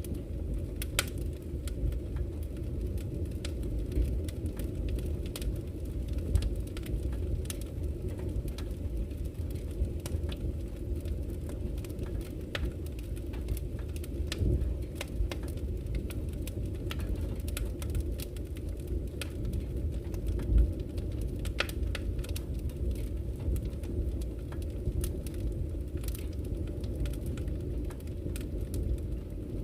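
Campfire crackling, with scattered sharp pops and snaps, over a steady low rush of flowing river water.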